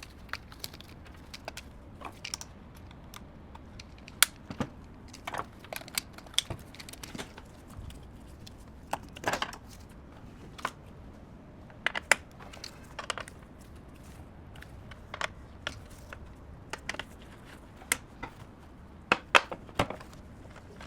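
Irregular light clicks and taps, a few at a time with short gaps, over a faint steady background noise.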